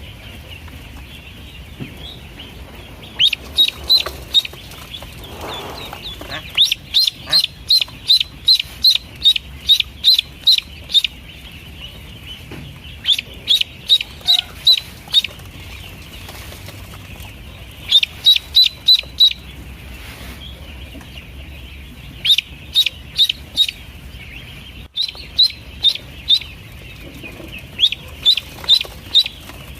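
Pekin ducklings peeping: runs of short, high-pitched peeps, several a second, in bouts with pauses of a second or two between them.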